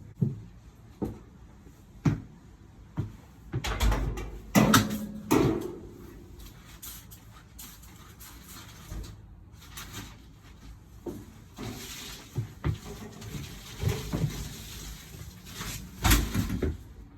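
Irregular knocks, clunks and scraping from handling a clothes dryer and its vent hose, with a louder bout of bumping about four to five seconds in and again near the end.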